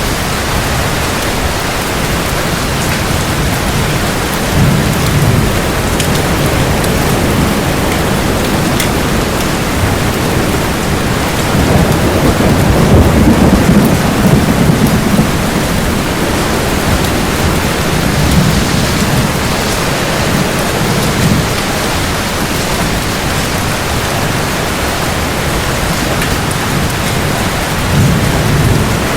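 Steady heavy rain hissing, with thunder rumbling low several times; the longest and loudest roll comes a little before the middle.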